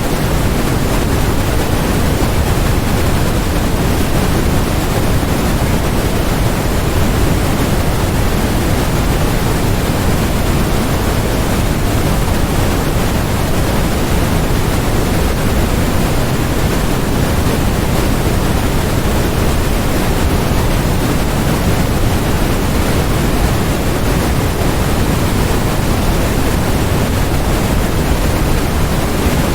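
Steady generated noise, a constant even rush with no change or rhythm, weighted toward the low end rather than bright and hissy, closer to pink noise than pure white noise.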